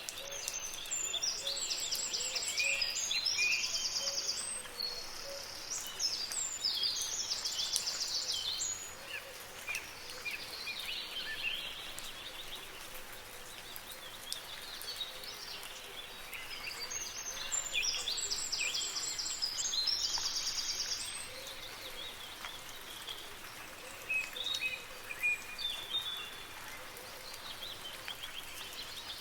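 Songbirds singing high, rapid trilled phrases in three bouts, with scattered quieter chirps between them, over a steady hiss of soft rain.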